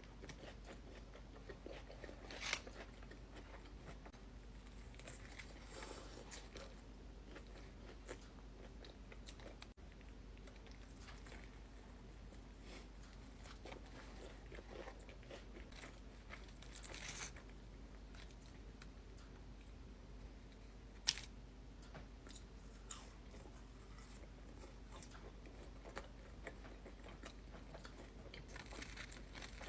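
A person chewing and biting food close to the microphone, soft mouth sounds with a few sharp, crunchy bites scattered through.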